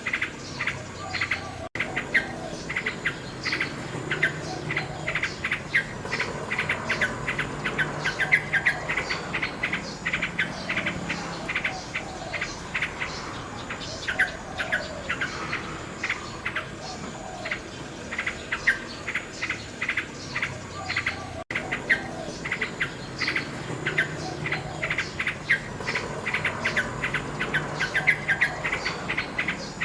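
Nightingale singing continuously: fast runs of rapidly repeated notes mixed with lower warbled phrases. The sound cuts out for an instant twice, once near the start and once about two-thirds through.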